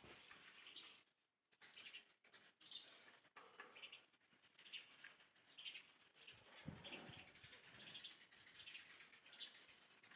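Faint, short, high-pitched chirps repeating about once or twice a second, from a small animal.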